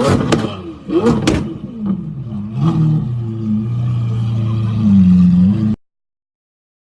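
A loud supercar exhaust starts with a run of sharp crackling pops, then blips again about a second in. After that it settles into a steady engine drone, which rises and dips in pitch near the end. The sound cuts off abruptly about six seconds in.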